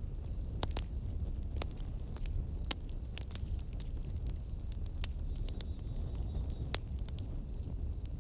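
Wood fire crackling in a fireplace: sharp pops and snaps at irregular intervals over a steady low rumble of the flames, with a faint high, pulsing chirr behind.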